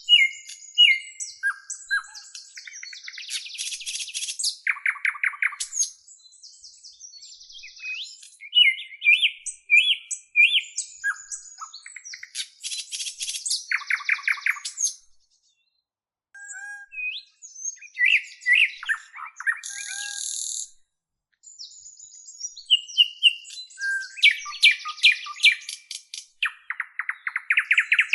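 Small songbirds singing and chirping: varied phrases of high chirps, short whistles and fast buzzy rattles, broken by brief pauses.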